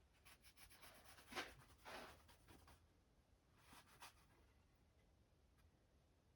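Faint rubbing of a cloth wiping a radio's back plate dry: a quick run of short strokes through the first few seconds and a couple more about four seconds in.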